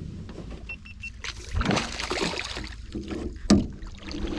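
Water splashing and knocking at a boat's side as a hooked northern pike is brought in, with a sharp knock about three and a half seconds in. Three short high beeps sound about a second in.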